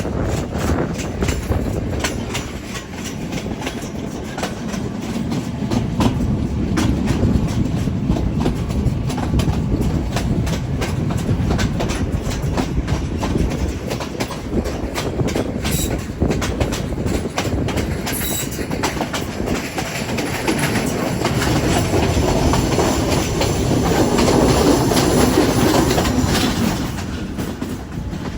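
Train running along the track: a steady rumble with the wheels clicking over the rail joints, growing a little louder a few seconds before the end.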